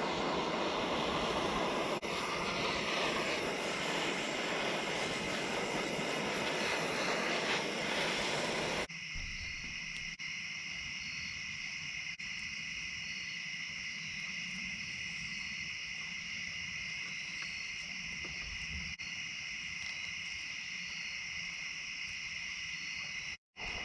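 A steady insect chorus, trilling at two high pitches. For the first nine seconds or so a louder, broad rushing noise lies over it and then cuts off suddenly.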